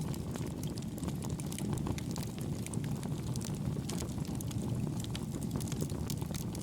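Campfire firewood crackling, with many small sharp pops scattered throughout, over a steady low rush of wind and gentle waves.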